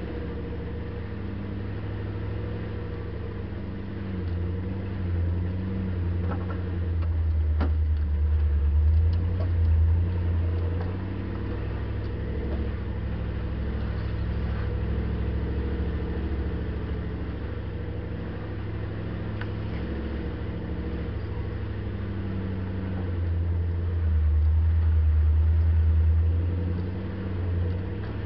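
Land Rover Series 2a engine running as the vehicle drives along a dirt track, with a steady low hum that swells louder twice for a few seconds at a time. A few light knocks are heard around seven seconds in.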